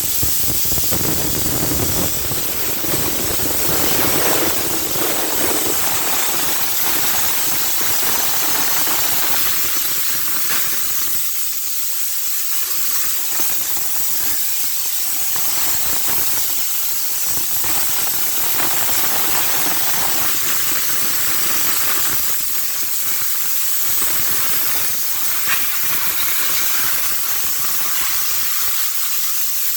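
Steady hiss of a high-pressure spray jet cleaning a car engine bay.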